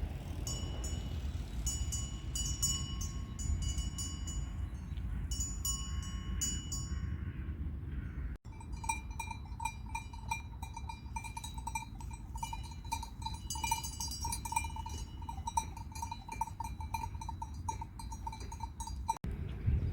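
Bells on grazing livestock clanking irregularly, many small metallic rings over a steady low outdoor rumble. It breaks off abruptly about eight seconds in and resumes at once, as if cut.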